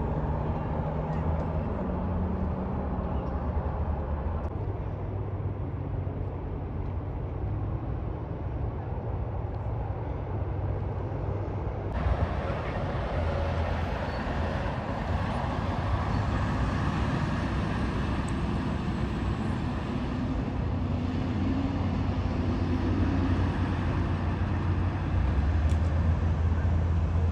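Steady vehicle and road noise, a continuous low engine hum under a haze of tyre and traffic sound, which changes abruptly about twelve seconds in.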